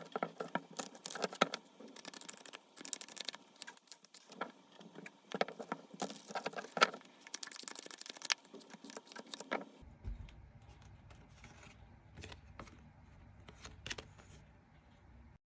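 Tarot cards being shuffled and handled: a dense run of crisp rustles and clicks, giving way about ten seconds in to a quieter stretch with a steady low hum and a few soft clicks.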